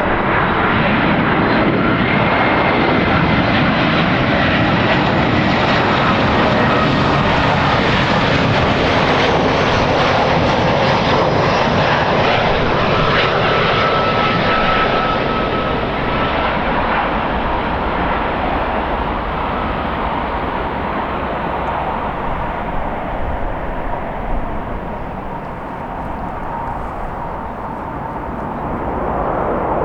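Jet airliner's engines running loud as it passes, a rushing roar with a thin whine that drifts slightly lower in pitch. The sound fades over the second half and builds again just before the end.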